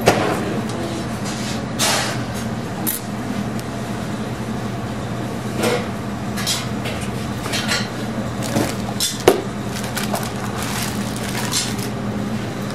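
Kitchen background: a steady machine hum with scattered clinks and knocks of cookware and utensils, the sharpest right at the start and about nine seconds in.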